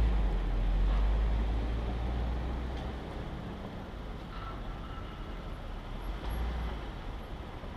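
A stopped car's engine idling, heard as a steady low rumble that is strongest in the first couple of seconds and then eases off.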